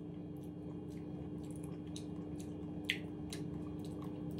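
A person chewing a mouthful of kimchi: soft wet mouth clicks and squelches, with one sharper click about three seconds in. A steady low hum runs underneath.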